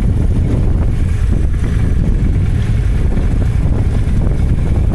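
Vehicle running with a steady low rumble, wind buffeting the microphone.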